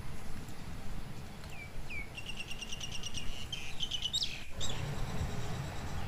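A small bird chirping in short phrases: two downward-sliding notes, then a quick run of rapid repeated notes and a few more chirps, fading out just before the end. A low background rumble runs underneath.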